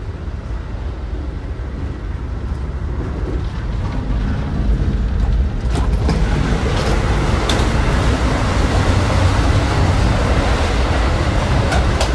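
Passenger train running, heard from inside the train: a steady rumble of wheels on rails that grows louder about five seconds in, where the vestibule between cars is entered, with a few clicks and rattles.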